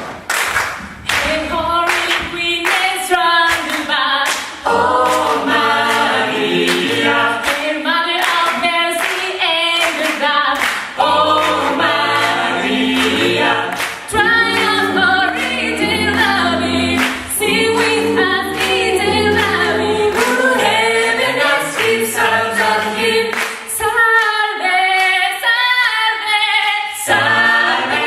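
An a cappella vocal group singing in close harmony over a low sung bass line, with sharp percussive hits keeping a steady beat.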